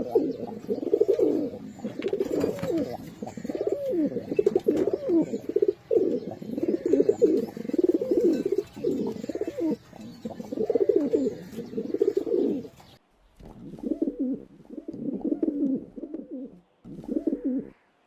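Pigeons cooing again and again in low, rolling coos. The first recording cuts off about thirteen seconds in, and a quieter recording of pigeon coos follows after a short gap.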